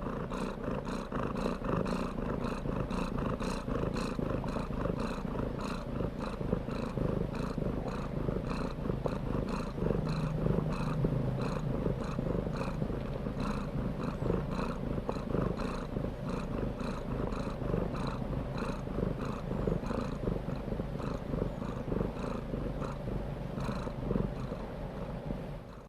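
Domestic cat purring continuously.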